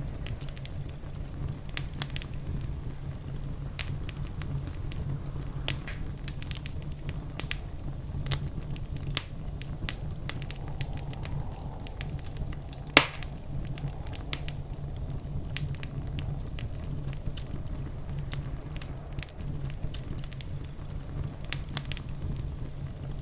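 Wood fire crackling in a fireplace: scattered small crackles over a steady low rumble, with one sharp, much louder pop about halfway through.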